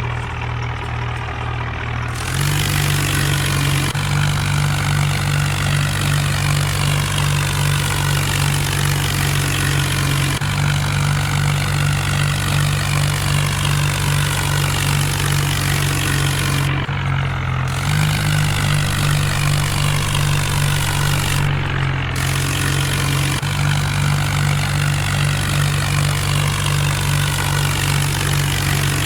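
Mahindra Arjun tractor's diesel engine running steadily under load, its pitch jumping abruptly up or down several times.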